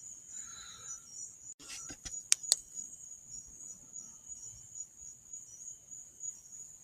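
Steady high chirring of crickets, with two sharp clicks about two seconds in.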